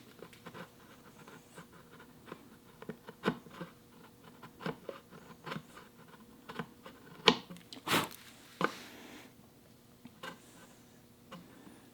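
Steel chisel scraping and clicking against the wooden dovetail joint in short, irregular strokes, with a longer scrape about eight seconds in, as a small hump on the joint is checked and worked flat.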